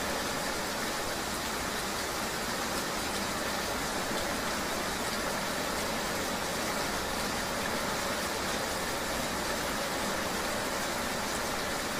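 Steady rain ambience mixed with vehicle engine and road noise: an even, unbroken hiss with a faint hum beneath it.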